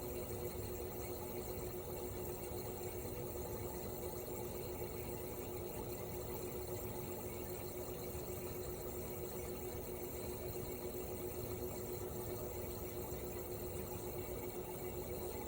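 Toshiba RAS-285BAD mini-split outdoor unit running in cooling mode: its twin rotary compressor and propeller fan make a steady hum with one constant tone and no change in speed.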